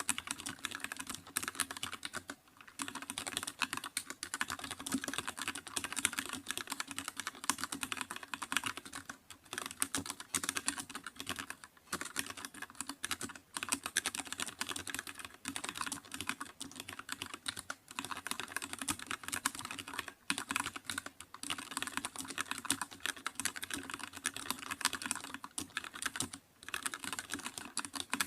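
Continuous fast typing on a computer keyboard, dense key clicks in runs broken by brief pauses every few seconds.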